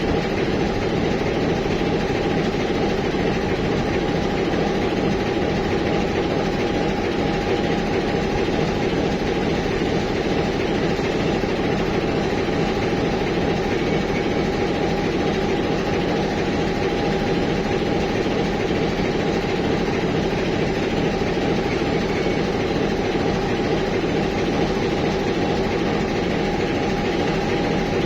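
TEM18DM shunting diesel locomotive's engine running steadily at an even pitch, with a steady high whine over it.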